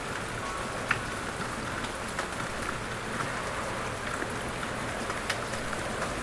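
Steady rain falling, with scattered individual drops ticking sharply on a hard surface.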